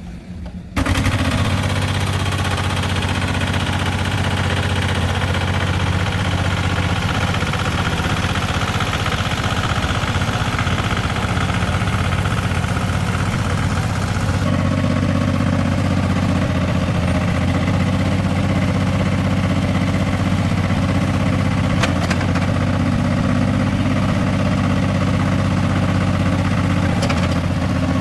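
Restored old tractor's engine running steadily at idle, coming in abruptly about a second in.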